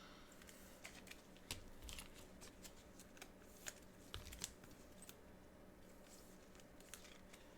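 Faint, scattered clicks and light rustles of trading cards being handled and flipped through.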